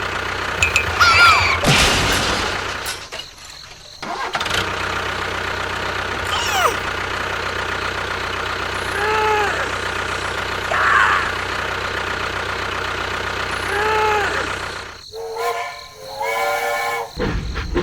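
An engine running steadily, with a few short squeaky calls that rise and fall over it.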